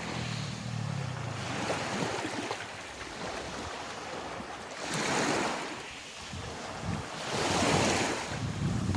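Sea water washing and splashing, with wind buffeting the microphone. Two louder surges of water noise come about five and eight seconds in.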